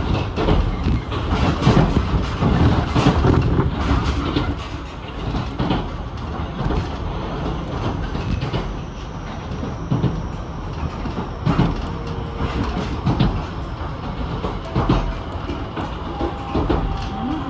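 Running noise of an Ichibata Electric Railway 7000 series railcar heard from inside the car: a steady rumble with repeated clicks from the wheels on the track. It is louder for the first few seconds, then settles a little quieter.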